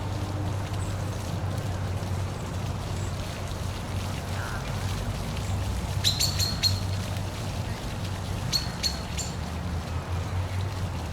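Steady rush of a waterfall, with two quick clusters of short, high bird chirps about six seconds in and again near nine seconds.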